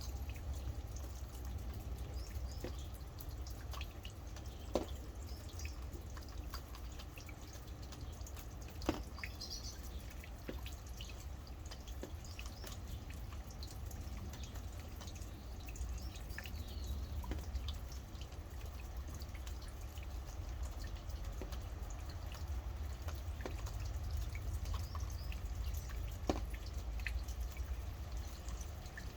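Rain dripping, with scattered single drops landing close and sharp, over a steady low rumble. Faint bird chirps come through now and then.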